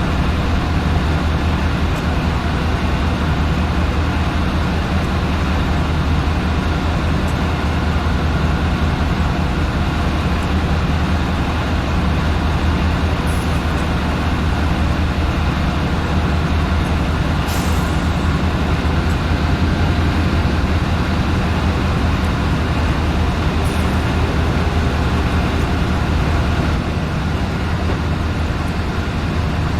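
Diesel train engine running steadily with a deep hum, with three short hisses about a third, halfway and four-fifths of the way through.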